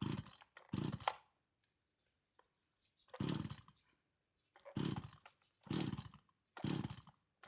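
Chinese two-stroke chainsaw being pull-started: about six quick pulls of the recoil starter, each a short rough burst of the engine cranking over without catching. The owner suspects a failed spark plug.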